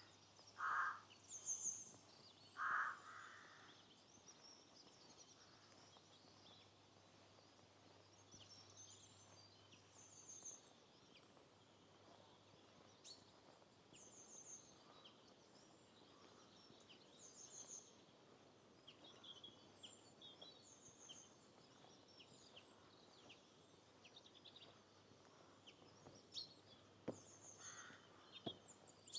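Small songbirds singing and chirping, with short high trills repeated every few seconds. Near the start, two louder, lower calls come about two seconds apart.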